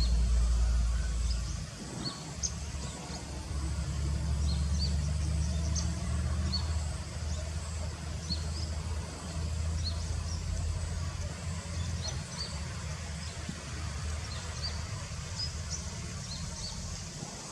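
Outdoor ambience: a low rumble that rises and falls, with many short high chirps scattered throughout.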